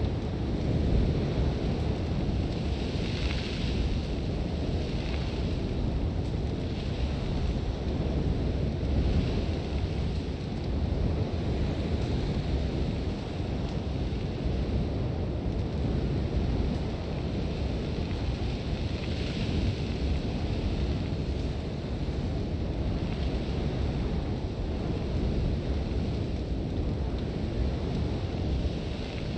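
Sandstorm wind blowing hard, a steady low rumble with blown sand hissing over it, the hiss swelling in brief gusts a few times.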